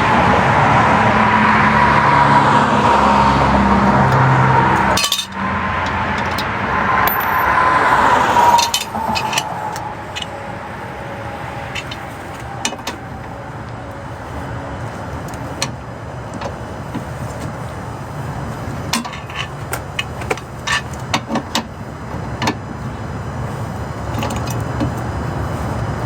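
Vehicle noise for the first eight seconds or so, then a run of scattered metallic clinks and taps from tools and parts being handled during a car tire change.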